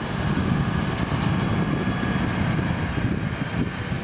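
Intercity coach's diesel engine rumbling steadily as the bus pulls away from the terminal. Two brief, faint high hisses come about a second in.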